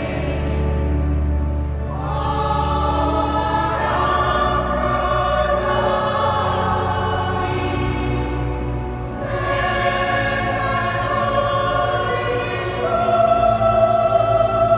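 Mixed choir singing a sacred choral piece with sustained, slowly moving chords, accompanied by organ with a steady low bass note under the voices for the first few seconds, in a reverberant cathedral.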